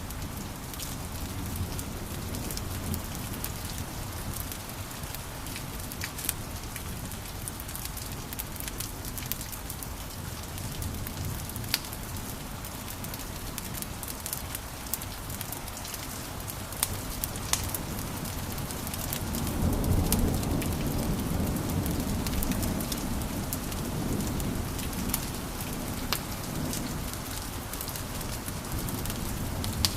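Wood fire crackling in a fireplace: many sharp pops and snaps scattered over a steady hiss. A low rumble swells up about two-thirds of the way through and then eases off.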